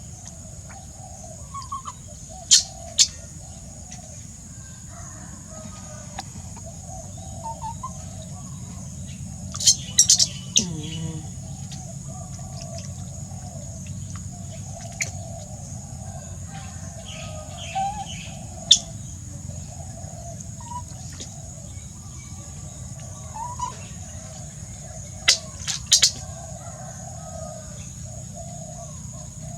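Birds calling steadily in the background, with a steady high whine. Several short sharp clacks cut through, a pair at about three seconds, a cluster around ten seconds, one near nineteen seconds and a pair near the end.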